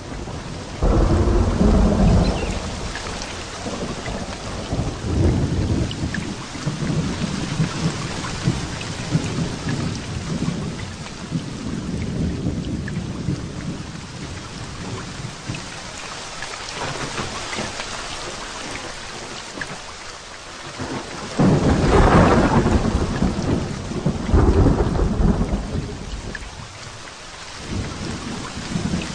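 Heavy rain falling steadily in a thunderstorm, with rolls of thunder. A loud rumble begins about a second in and fades slowly. Two more loud rolls come close together about three quarters of the way through.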